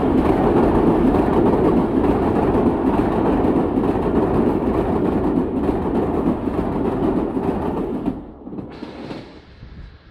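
Passenger train coaches rolling past at speed across a steel truss railway bridge, a loud, steady rumble of wheels on rails. It falls away sharply about eight seconds in as the last coach clears, leaving only faint rustling.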